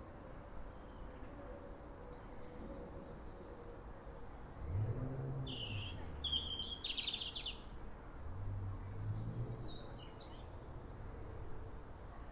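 Outdoor ambience with birds chirping a few short calls midway through, over a faint low background rumble.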